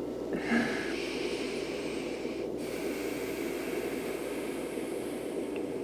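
A steady white-noise bed: an even hiss with a fuller low hum beneath it. A short soft breath-like sound comes near the start, and the high hiss briefly drops out about two and a half seconds in.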